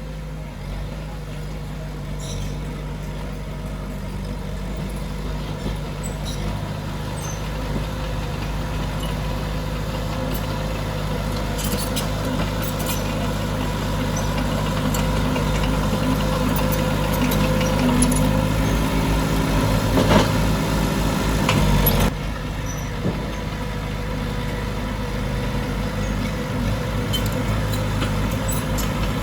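Diesel engine of heavy earthmoving machinery running steadily under work and growing gradually louder, with a few metallic clanks in the middle and a sudden drop in level about three-quarters of the way through.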